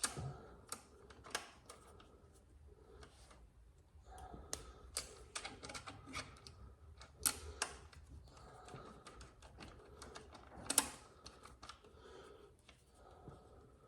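Irregular sharp metal clicks and clinks of a hand tool working at a motorcycle's rear axle while an axle slider is fitted and its bolt tightened.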